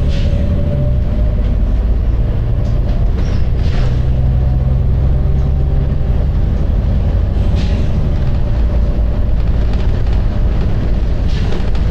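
Volvo B9TL bus's six-cylinder diesel running with a heavy, steady rumble. Its engine note shifts slowly, and short hissing bursts from the air system come at about four-second intervals.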